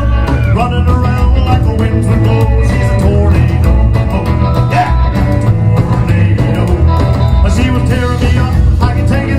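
Live rock and roll band playing loudly with guitar and a steady drum beat.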